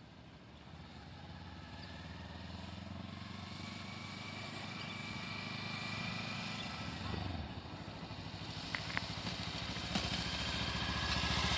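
Kawasaki Ninja 300's parallel-twin motorcycle engine running, growing steadily louder as the bike draws closer.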